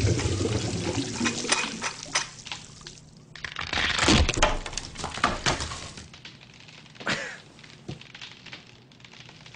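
A run of clanks, thuds and breaking knocks mixed with splashing, pouring water, loudest over the first two seconds, with a fresh cluster of knocks about four seconds in and quieter scattered knocks after.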